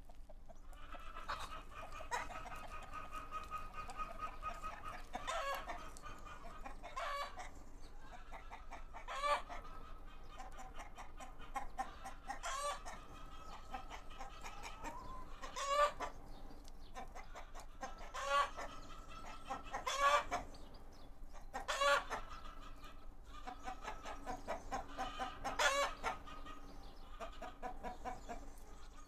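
Chickens clucking steadily, with louder, sharper squawks every few seconds.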